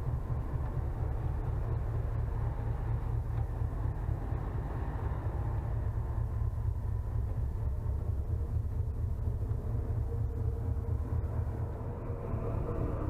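Steady low rumble and rushing noise aboard a ferry under way at sea: wind buffeting the microphone over the ship's running noise.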